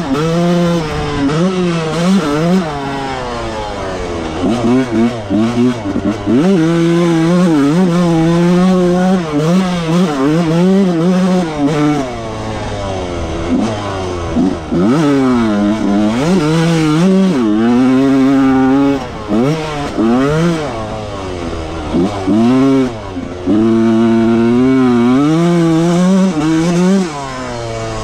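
1995 Yamaha YZ125's two-stroke single-cylinder engine under hard riding, the revs climbing and dropping again and again every second or two as the throttle is worked and gears change.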